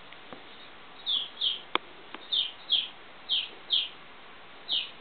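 A bird singing a repeated two-note chirp, high and falling, about one pair a second. A single sharp click comes just under two seconds in.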